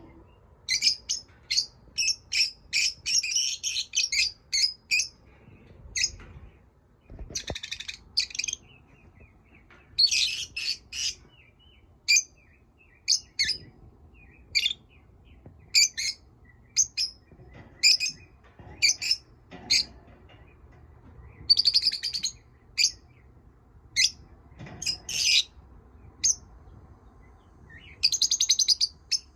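Pet lovebirds chirping: a string of short, sharp, high-pitched chirps in irregular flurries, with brief pauses between.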